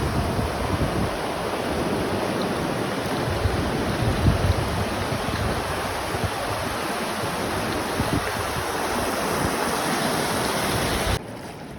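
Steady rushing of moving water, with wind buffeting the microphone in gusts. The sound drops off abruptly just before the end.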